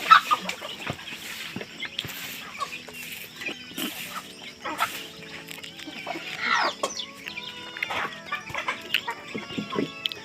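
Chickens clucking repeatedly in short calls, over background music.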